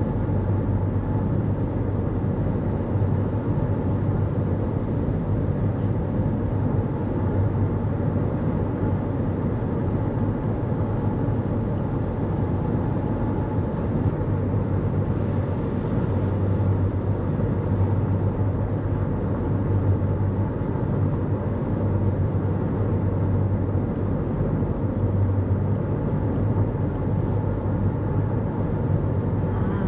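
Steady road and tyre noise from a 2024 Toyota Corolla Cross cruising on the highway, heard inside the cabin, with a constant low hum.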